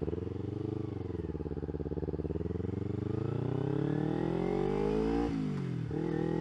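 Kawasaki Ninja 250R's parallel-twin engine accelerating, its revs climbing steadily for several seconds. About five seconds in the revs drop sharply for a quick upshift, then climb again.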